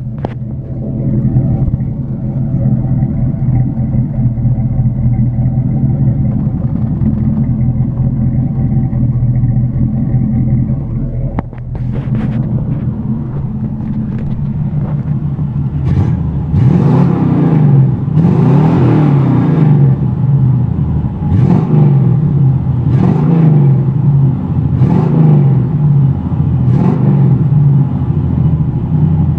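Fuel-injected 305 small-block V8 of a 1987 Chevy pickup, straight-piped, idling steadily on a cold engine. From about halfway in it is revved again and again, about every two seconds.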